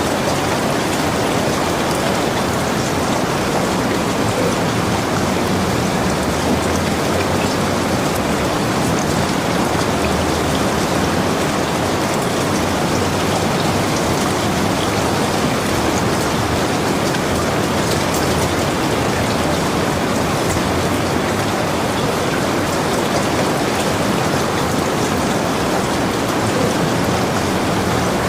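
Steady rain falling: an even, unbroken wash of rainfall with many small drop ticks scattered through it.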